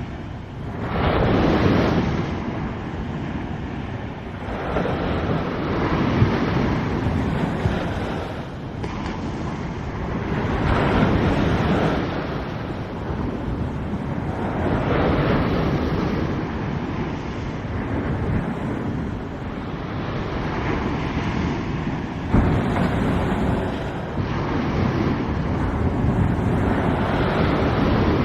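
Surf breaking on a beach in repeated surges, about every four to six seconds, with wind buffeting the microphone.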